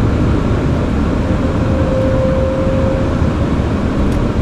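Steady rumble of airflow and engines heard in an Airbus A340 cockpit on approach with the landing gear down. A faint steady tone sits over it for about two seconds in the middle.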